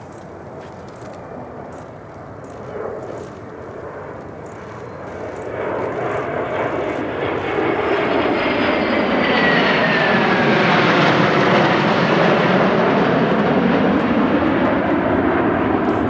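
Jet noise of a Mitsubishi F-2A fighter fly-by, its F110 turbofan building over several seconds to a loud, steady rush, with a thin whine that falls in pitch as the jet passes.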